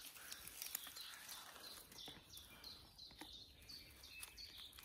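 Faint birdsong: a run of short high notes repeated about three times a second, clearest in the second half.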